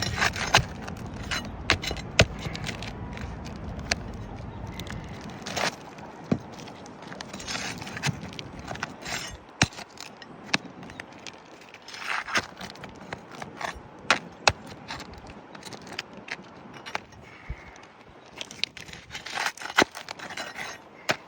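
Asphalt roof shingles being worked loose and their nails removed: scattered sharp clicks and knocks with short scraping and crackling bursts as the stiff shingles and the grit beneath them are handled.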